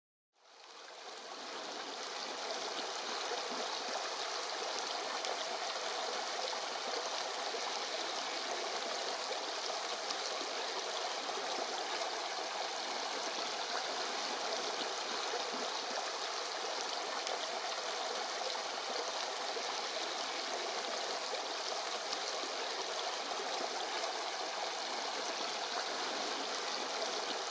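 Steady rush of flowing water, a waterfall or fast river, fading in over the first two seconds and then holding even.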